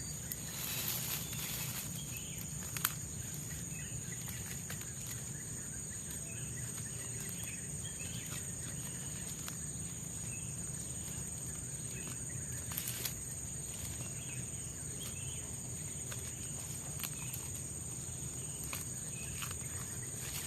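Tropical forest ambience: a steady, high-pitched drone of insects, with occasional short knocks and rustles of someone moving or working close by.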